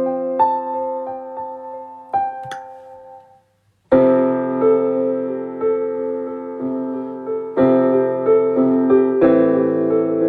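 Solo piano playing the slow opening of a song: two chords struck and left to ring and fade, a brief pause about three and a half seconds in, then fuller held chords with a moving melody from about four seconds.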